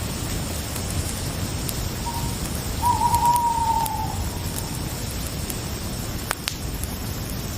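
An owl gives one drawn-out, slightly falling hoot about three seconds in, over a steady night-forest ambience of crickets, with a few sharp crackles such as a twig or fire snapping, one about six seconds in.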